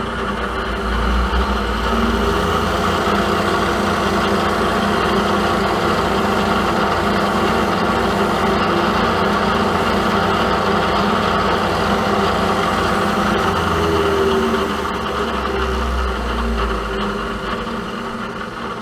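Milling machine running, drilling a through hole in a small collar held in the vise: a steady motor and spindle hum with a low rumble that eases off near the end.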